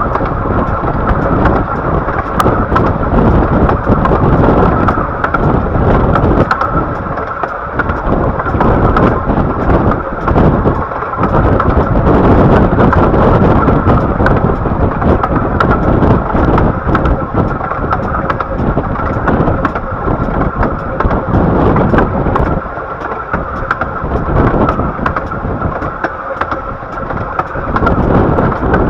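Bure Valley Railway 15-inch gauge train running along the line, heard from a carriage as a loud, steady rumble of wheels on rail with wind noise on the microphone.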